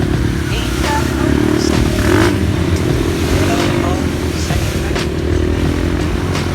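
Dirt bike engine running steadily under way, a dense low engine note throughout.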